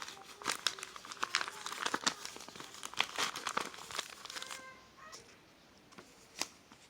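Paper envelope and its contents rustling and crinkling as they are handled, dense for about four seconds, then quieter with a single tap near the end.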